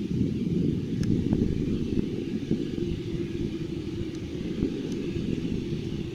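Steady low engine rumble with a faint steady hum running through it.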